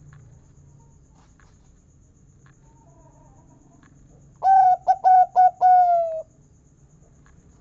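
Zebra dove (perkutut) singing a loud phrase about halfway in: a run of short cooing notes ending in one longer, slightly falling 'kung' note.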